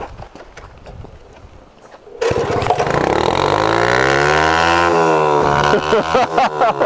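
A mini bike's small single-cylinder engine starts up loudly about two seconds in, revs up and then eases off, its sound coming through a cracked exhaust.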